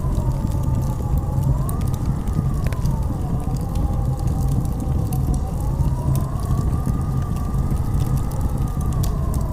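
Blizzard wind howling: a whistling tone that rises and falls slowly over a steady low rumble, with scattered sharp crackles.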